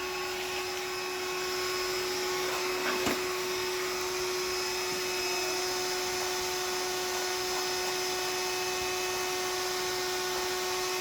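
Vacuum cleaner motor running steadily with an even, unchanging hum and rush of air, with one brief knock about three seconds in.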